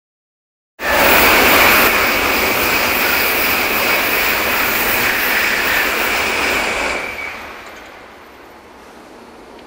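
Shinkansen bullet train running past: a loud rushing noise with a steady high whine over it, which cuts in abruptly just under a second in and fades away about seven seconds in.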